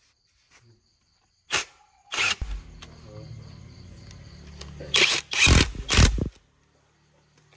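A truck engine starting about two seconds in and running with a steady low hum, with three loud bursts about five to six seconds in before it settles to a fainter hum.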